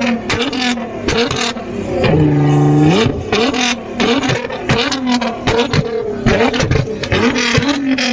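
Sports car engine being revved over and over, the pitch rising and falling with each blip and held high for about a second near the two-second mark, with sharp exhaust pops and cracks between the revs.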